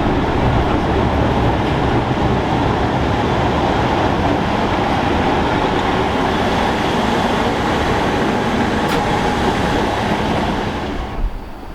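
Steady running noise of a narrow-gauge electric railcar on the move, which drops away sharply near the end.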